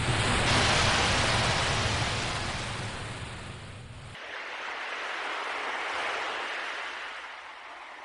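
Ocean waves washing in as surf, two swells about five seconds apart. A low rumble under the first swell cuts off suddenly about four seconds in.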